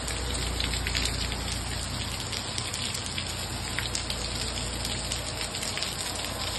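Heavy rain falling steadily on waterlogged ground, a dense run of close drop hits over the constant hiss of the downpour.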